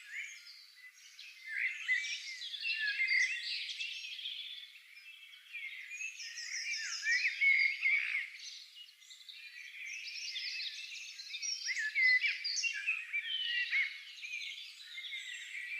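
Several songbirds singing at once: a dense, overlapping chorus of quick chirps, trills and whistles that swells and dips every few seconds.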